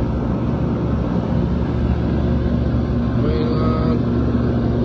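Rooftop air-conditioning units running with a steady low mechanical hum.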